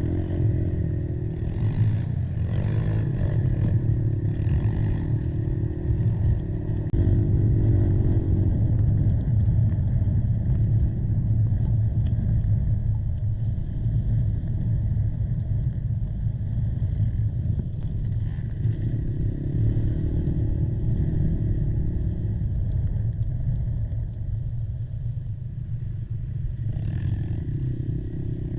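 Kymco Maxxer 300 quad's single-cylinder four-stroke engine running under way, its note swelling several times as the throttle opens and easing off between.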